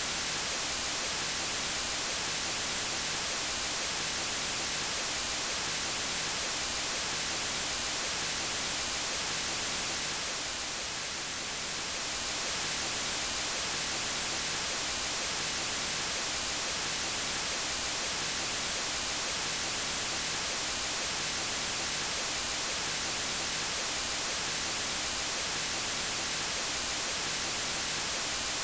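Steady white noise: an even hiss, strongest in the highs, that dips slightly in level for a moment about ten seconds in.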